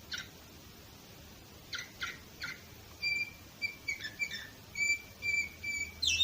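Canary singing in short broken phrases: a single quick chirp at the start, three fast sweeping chirps about two seconds in, then a run of short, clear whistled notes ending in a quick downward sweep.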